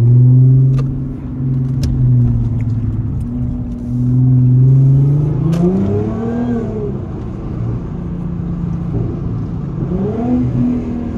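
Audi A7's supercharged 3.0-litre V6 heard from inside the cabin while driving: a steady low engine drone that climbs in pitch as the car accelerates about five seconds in, then falls back, and climbs again briefly near the end.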